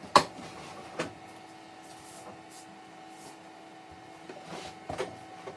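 Knocking and scraping as a built-in dishwasher is handled and pulled partway out of its cabinet: one sharp knock at the start, a lighter one about a second later, then scraping and shuffling near the end, over a faint steady hum.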